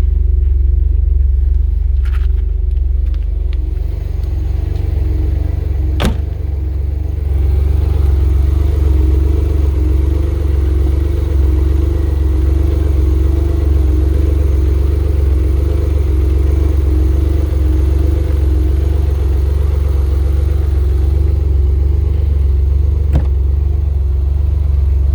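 Noble M12 GTO-3R's twin-turbo Ford Duratec V6 idling steadily with a deep, even rumble. Two brief sharp clicks are heard, about 6 seconds in and again near the end.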